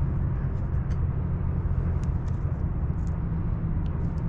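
Pit bike's small single-cylinder engine running steadily at an even pitch, with a few faint ticks over it.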